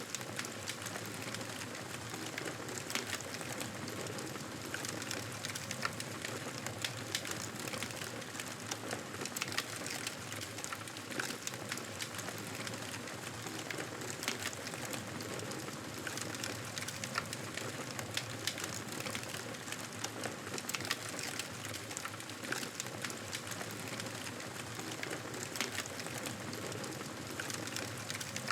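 Wood fire in a fireplace crackling: a steady hiss dotted with frequent small sharp pops and snaps.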